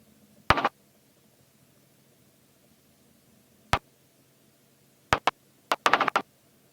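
Faint steady hum of cockpit intercom audio, broken by short sharp crackles: one about half a second in, another in the middle and a quick cluster near the end.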